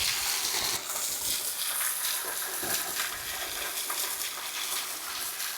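A steady, high-pitched hiss of outdoor background noise on a forested mountain trail, with no single sound standing out.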